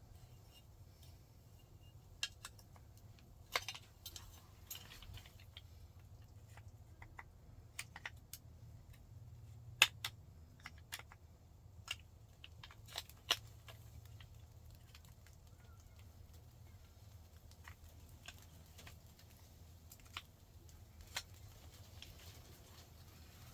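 Irregular sharp clicks and light taps, about a dozen spread out, the loudest about ten and thirteen seconds in: small parts and hand tools being handled while a truck door is put back together. A faint steady low hum runs underneath.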